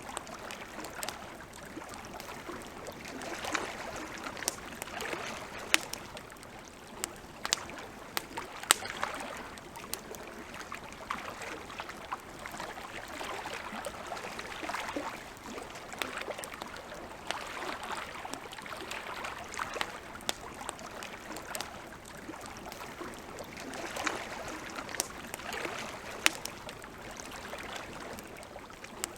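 Campfire crackling: irregular sharp pops and snaps over a steady hiss that swells and fades every few seconds.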